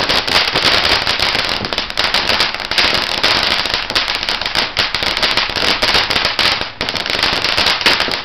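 Consumer garden firework going off with a rapid, dense crackle of sharp pops over a steady hiss for about eight seconds, stopping abruptly near the end.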